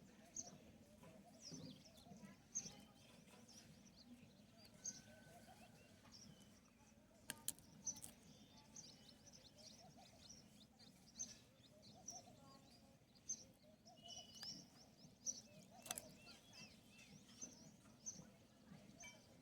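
Faint chirping of small birds: many short, high chirps repeated throughout, with a few sharp clicks.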